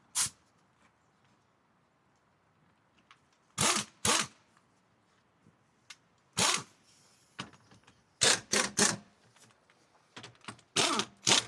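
Wheel lug nuts being run down with a ratcheting socket wrench: short bursts of rapid ratchet clicking, several close together near the end.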